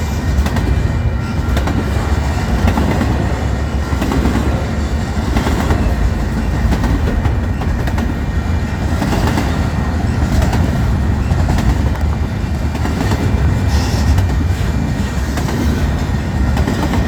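Loaded freight train cars rolling past at close range, a steady heavy rumble with the clatter of wheels over the rails.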